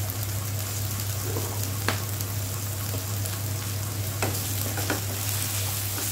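Chickpeas frying in oil in a kadai over high heat to crisp them, sizzling steadily as a wooden spatula stirs through them, with a few sharp clicks of the spatula against the pan. A steady low hum runs underneath.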